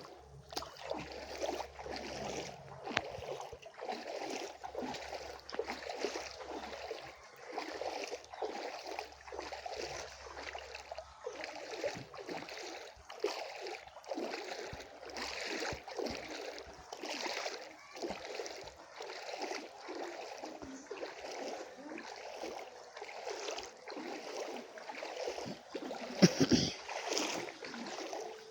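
Rain falling, with many irregular drops pattering sharply close by. There is a single louder thump near the end.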